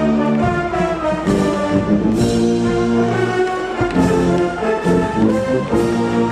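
School brass band playing held, sustained chords that change every second or so, with several percussion hits.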